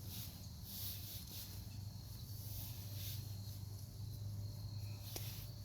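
Insects chirping in a steady, high-pitched pulsing rhythm, with a low hum underneath and a single click near the end.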